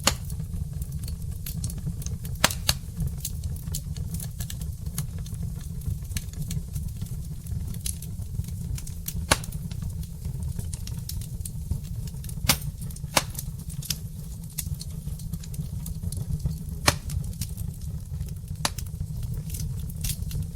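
Wood fire crackling in a fireplace: irregular sharp pops and snaps from the burning logs, a few louder than the rest, over a steady low rumble.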